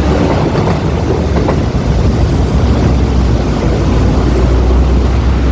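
A train running through the station: a steady rumble that grows heavier toward the end. A faint, thin high tone comes in about two seconds in and lasts about two seconds.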